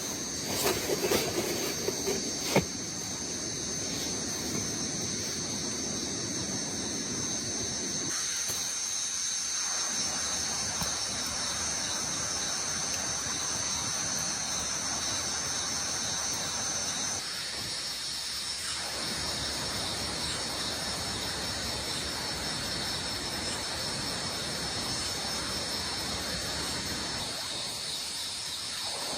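Steady rain falling in a forest, with insects trilling in a continuous high-pitched buzz. A few sharp taps come in the first few seconds.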